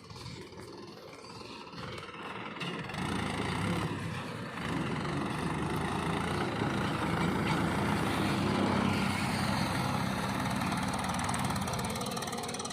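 A heavy diesel engine running; it grows louder about three seconds in and then holds a steady hum.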